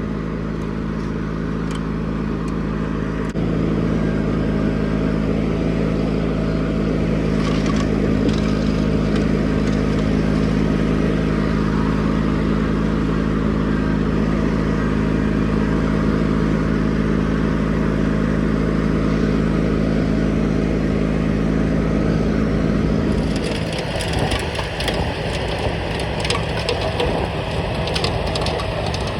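John Deere 420 garden tractor's engine running steadily while it drives the snowblower. About 23 seconds in the steady engine note drops away and a rough crackling, crunching noise with many sharp clicks takes over.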